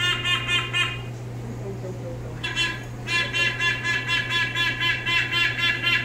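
A bird calling in runs of quick repeated notes, about six a second: a short run at the start, then a longer run from about two and a half seconds in that carries on.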